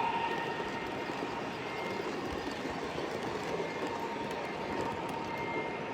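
A model train running on a show layout: a steady mechanical noise with a few faint clicks.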